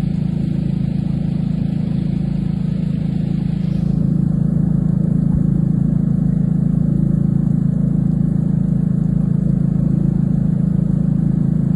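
An engine running steadily, a constant low drone, with a hiss over it that drops away abruptly about four seconds in.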